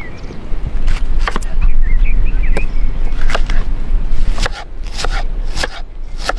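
Irregular sharp knocks and clicks, about a dozen in six seconds, over a steady low rumble, with a few short high squeaks in the first half.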